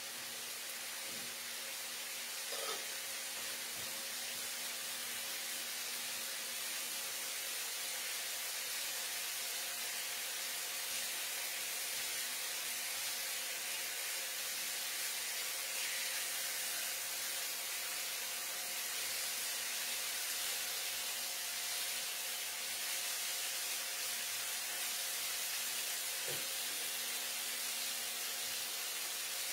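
Marinated chicken pieces frying in oil in a nonstick pan on an induction cooktop: a steady sizzle and hiss, with a faint steady hum underneath and the odd light touch of a spatula.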